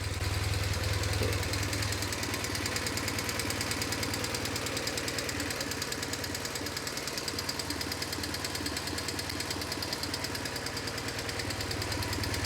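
BMW R1150GS boxer-twin engine idling with a sharp, fast tapping, worse on the left cylinder, which the owner guesses is coming from the valve train.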